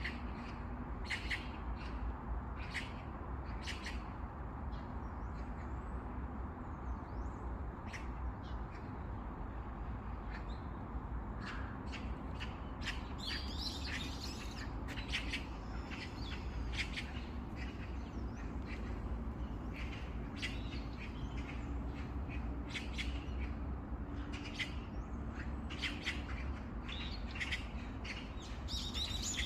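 Small birds chirping in short, scattered calls, busiest around the middle and near the end, over a steady low background rumble.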